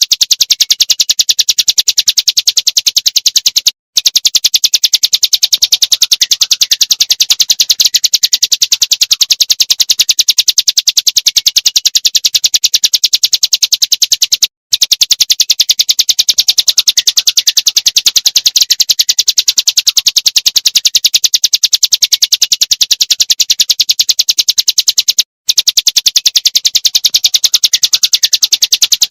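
Looped recording of a small songbird giving rapid, even, high-pitched 'shot' notes (tembakan) in a continuous stream, used as a tutoring track for cage birds. The loop restarts after a brief gap about every ten and a half seconds.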